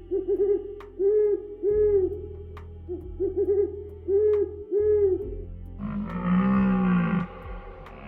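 A series of low hooting calls in two matching phrases, each a quick stutter of three hoots followed by two longer single hoots. A different, longer drawn-out call with a rich sound follows near the end.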